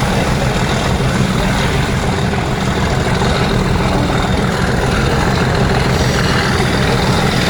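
Class 37 diesel locomotive's English Electric V12 engine working hard, a loud, steady, deep drone with no let-up.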